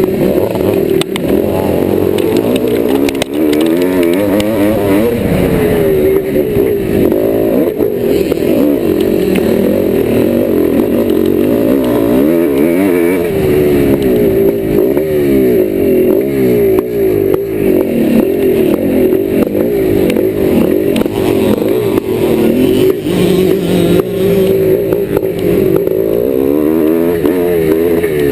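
Yamaha YZ490 two-stroke single-cylinder motocross engine ridden hard, its pitch rising and falling again and again with the throttle.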